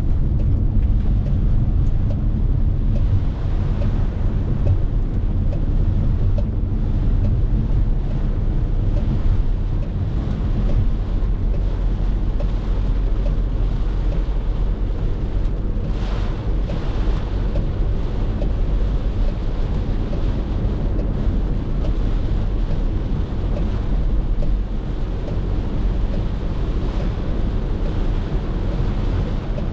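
Steady low rumble of a car driving on a wet highway in heavy rain: road, tyre and rain noise. A brief louder hiss comes about sixteen seconds in.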